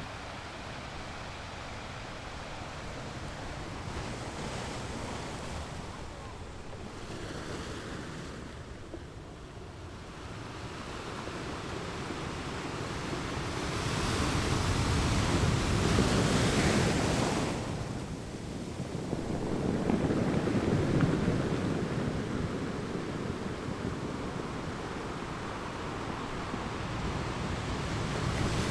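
Ocean waves washing onto a shore, a steady hiss of surf that swells into two louder breaking waves a little past the middle, with wind on the microphone.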